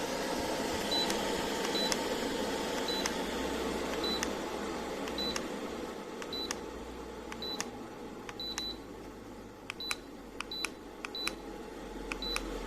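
Bladeless DC-motor tower fan blowing steadily while its controls give about a dozen short, high beeps, roughly one a second and unevenly spaced, with faint clicks, as its buttons are pressed to step through settings.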